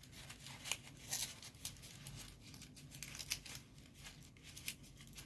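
Folded paper units of a modular origami kusudama rustling and crinkling as they are slotted into one another, an irregular string of small dry crackles and ticks.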